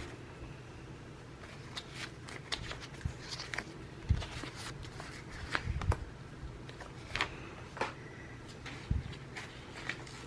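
Paper being handled on a desk: irregular rustling with scattered soft taps and a few low thumps.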